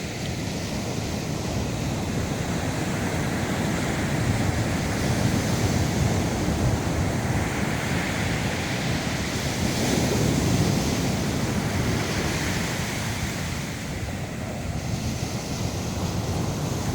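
Pacific Ocean surf breaking on a volcanic sand beach: a continuous rush of waves that swells and eases every few seconds, with wind buffeting the microphone.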